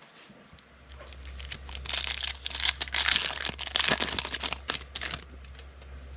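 A foil trading-card pack wrapper being crinkled and torn open: a run of crackling rustles, loudest about two to four seconds in, that dies away near the end.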